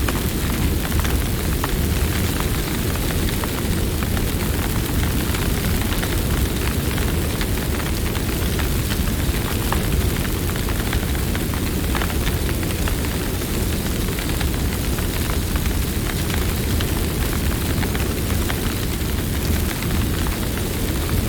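Campfire burning: a steady low rushing of the flames with scattered sharp crackles and pops from the burning wood.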